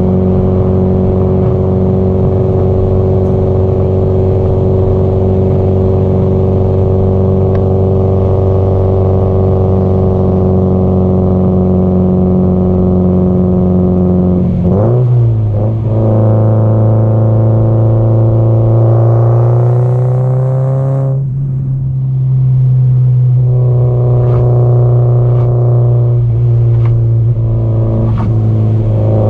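Subaru Impreza GDB-E WRX STI's turbocharged 2.0-litre flat-four running under way on the highway, heard through its exhaust. It holds a steady cruise, then about halfway through the revs jump and climb for a few seconds, ease off briefly, and settle back into steady running.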